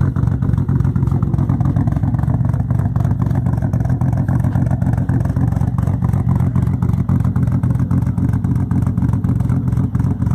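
Single-turbo Toyota Supra engine idling steadily after its first start in almost ten years, running a little rich.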